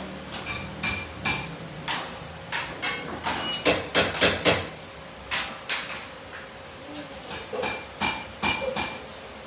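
Irregular hammer and hand-tool strikes on metal car suspension parts: a series of sharp knocks and clinks, some ringing briefly, coming thickest about three to five seconds in.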